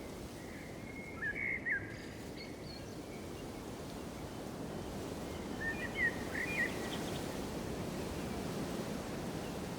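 Outdoor ambience: a steady rushing noise, with a small bird giving two brief bursts of chirps, about a second in and again around six seconds in.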